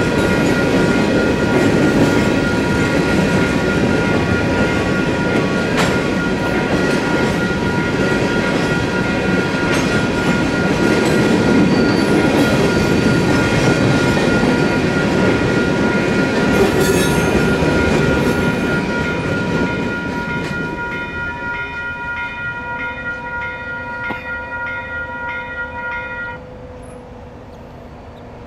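Empty ballast hopper cars rumbling and clattering over the rails through a grade crossing, with the crossing's WCH Type 4 electronic bell ringing steadily over them. The train noise fades out about twenty seconds in, and the bell cuts off suddenly a few seconds later as the crossing gates start to rise.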